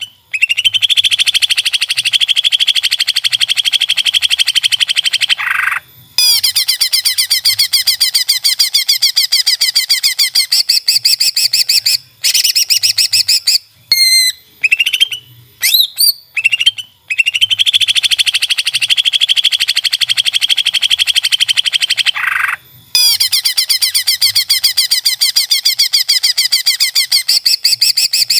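Green leafbird (cucak ijo) song: long, very rapid trilling phrases broken by short gaps and a few brief whistled glides. The same sequence comes round again after about 17 seconds, as in a looped training recording.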